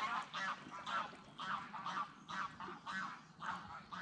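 A few greylag geese honking, a steady run of short calls at about three a second.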